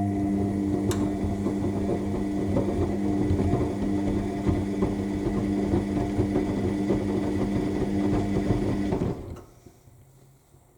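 AEG L7FE7461BI front-loading washing machine turning its drum during the main wash: a steady motor hum with the wet load tumbling inside. It stops about nine seconds in as the drum pauses between turns.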